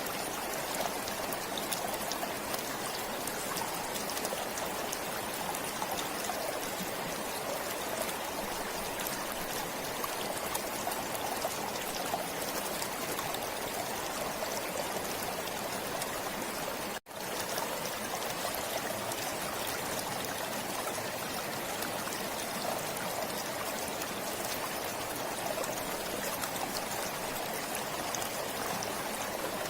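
Forest stream flowing steadily, a continuous rush of running water with small trickles. The sound cuts out for an instant about two-thirds of the way through and comes straight back.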